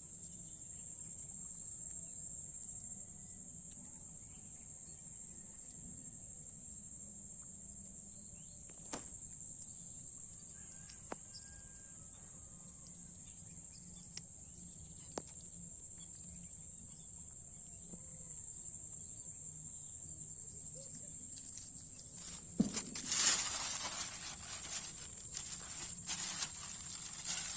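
Insects, crickets by the tags, shrilling steadily in one high, unbroken drone, with a few sharp clicks. Near the end a louder burst of rustling and clicking noise rises over it.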